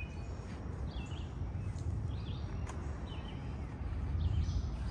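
Birds chirping in short, scattered calls over a steady low rumble, with a few faint taps like footsteps on a paved path.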